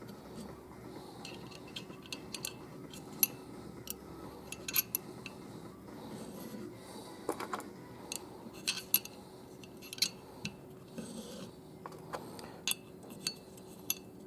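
Small steel vanes for a 700R4 transmission's oil pump clinking and tapping against metal as they are handled, a dozen or so irregular light clicks.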